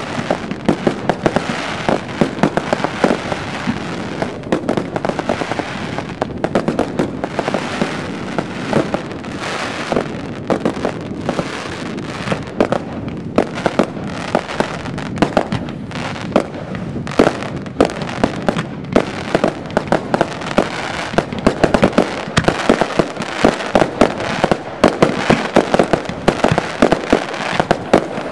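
Aerial firework shells bursting in a rapid, continuous barrage: a dense stream of overlapping bangs and crackles with no let-up.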